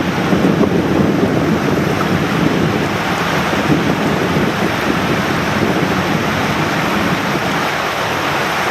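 Mountain stream water rushing over rocks, a steady loud noise.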